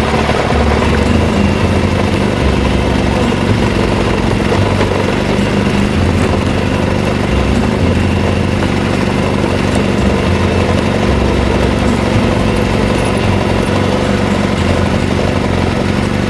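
BMW R1200GS flat-twin motorcycle engine running steadily at an even pitch.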